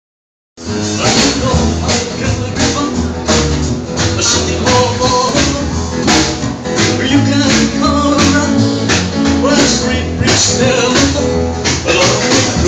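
Live music from a small trio band, with a steady, regular percussive beat over a bass line; it starts about half a second in.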